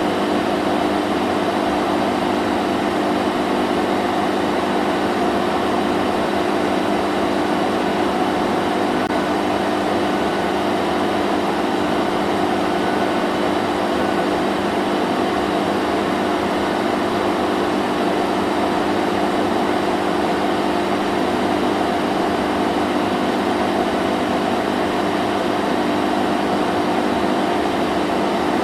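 Vacuum cleaner running steadily: an even rush of air over a constant motor hum.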